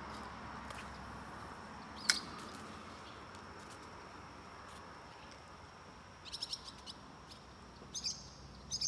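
Small birds chirping over a faint steady outdoor hiss: one sharp high note about two seconds in, then quick runs of short chirps in the last few seconds.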